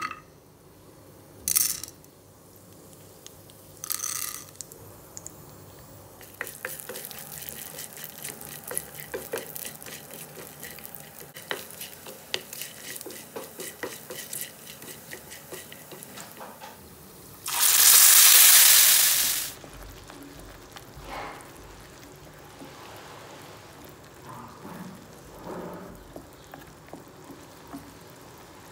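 Cashews, chana dal and urad dal frying in hot oil in a nonstick pan, with a few short sizzles as they go in, then steady crackling and popping while a wooden spatula stirs them. About 18 seconds in there is a loud hiss for about two seconds as wet ground coriander paste hits the hot oil, followed by quieter sizzling and stirring.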